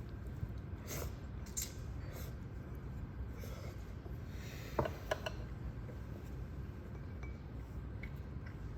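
Scattered light clicks and clinks over a steady low hum, the sharpest few coming about five seconds in.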